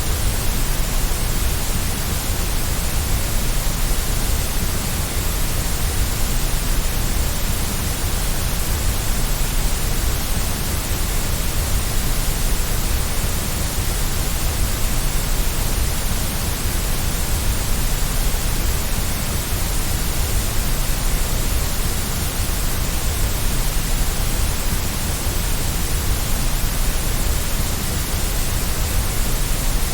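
Steady white noise: an even, unbroken hiss across the whole range with extra rumble at the bottom, with no changes or events.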